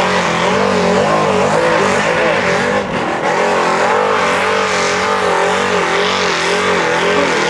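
A GMC 2500 pulling truck's engine running hard at high revs while pulling the sled down the track. Its pitch rises and falls over and over as the revs waver under load.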